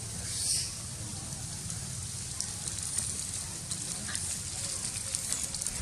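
Steady background noise: a low rumble under a high hiss, with a brief swell of hiss about half a second in and scattered faint crackles later on.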